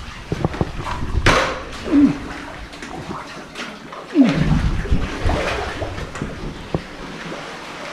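Kayak paddle splashing, with water sloshing around the hull in irregular surges and a few sharp knocks.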